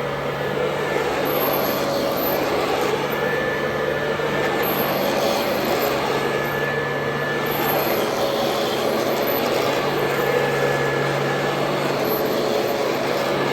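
Royal Model 2008 upright vacuum cleaner running steadily, its motor hum and faint whine swelling and fading slightly every few seconds.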